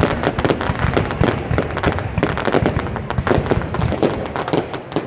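Fireworks display: a dense, unbroken string of bangs and crackles, several a second.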